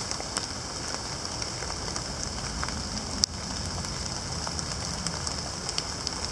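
Steady rain falling on wet leaf litter, with scattered drip ticks and one sharp click about three seconds in.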